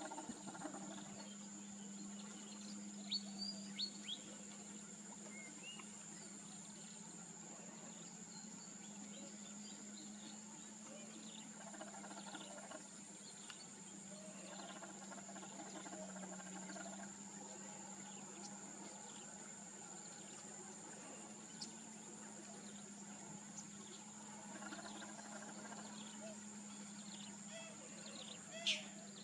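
Outdoor ambience: a steady high insect drone over a low hum, with a few short sharp bird calls about three seconds in and a louder one near the end.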